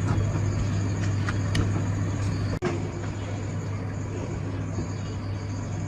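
Small two-stroke minibike engine running at a steady speed. The sound cuts out for an instant about two and a half seconds in.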